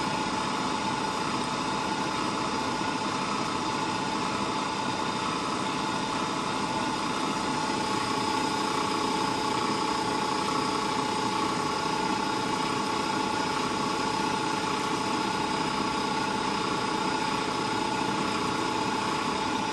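Steady machine hum with several constant whining tones and no change in level, the drone of a running electric motor.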